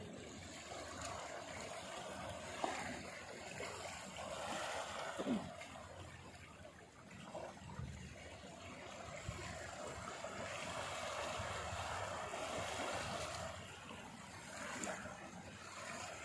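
Sea waves washing on a beach: a soft noisy wash that swells and eases twice.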